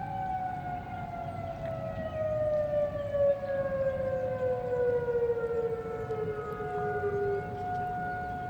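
Several outdoor tornado warning sirens sounding at once. One siren's tone slides slowly down in pitch for about seven seconds and then drops out, while another holds a steady tone.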